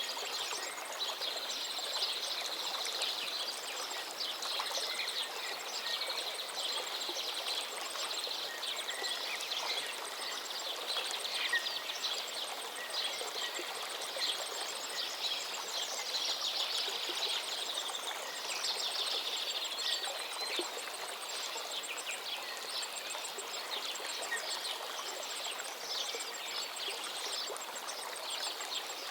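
A forest stream flowing steadily, with several songbirds singing over it in overlapping songs and quick trills.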